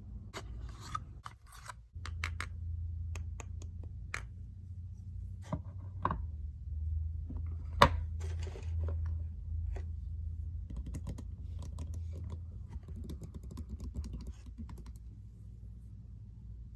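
Irregular clicks, taps and scratches from small objects being handled and opened close to the microphone, with one sharp, loud click about eight seconds in. A steady low hum runs underneath from about two seconds in.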